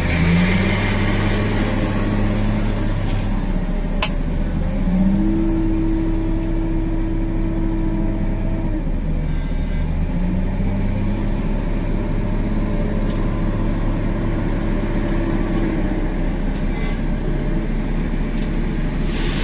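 Heavy diesel engine running while a loader fills a truck, its speed stepping up and down several times as it works. A single sharp click comes about four seconds in, and a rush of noise begins right at the end.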